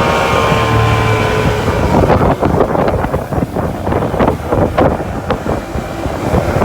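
Jet ski engine running over water, its pitch easing down over the first two seconds, then a rough rush of water and wind on the microphone with many sharp slaps and crackles.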